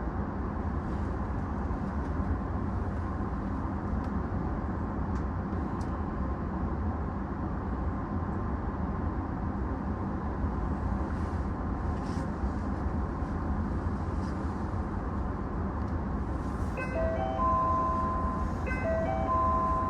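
Steady low hum and rumble of an E233-series electric train standing still. Near the end, a short electronic tone pattern of stepped notes sounds twice, each ending on a held higher tone.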